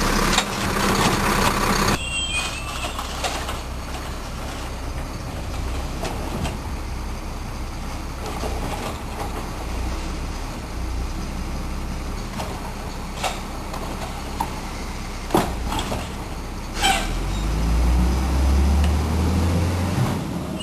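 Garbage truck's engine running, with a few sharp knocks in the middle and the engine revving up near the end.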